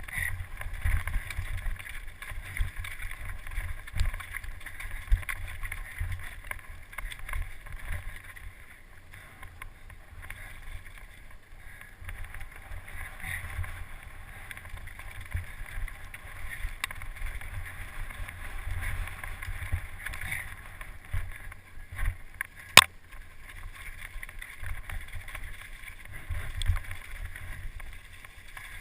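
Wind buffeting the microphone in gusts over a steady rushing noise, with one sharp click about three-quarters of the way through.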